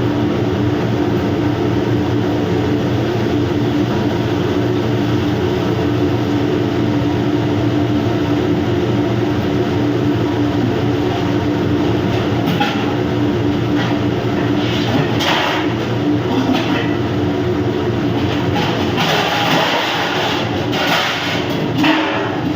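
Steady loud mechanical drone of a ship's machinery, with a hum of several low tones. In the second half, bursts of hissing noise come and go.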